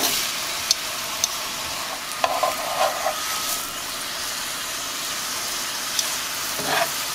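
Corn tortillas sizzling steadily in hot chili oil in a skillet, with a few short clicks as metal tongs lift and turn them.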